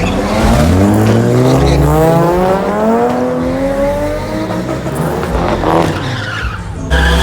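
Car engine accelerating hard, its pitch climbing steadily for about four seconds before easing off. The sound changes abruptly near the end to another engine.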